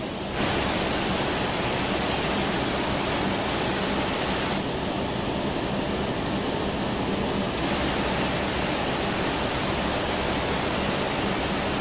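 Steady rushing hiss of flight-deck background noise, with a faint low hum under it and no speech. It steps up abruptly about half a second in.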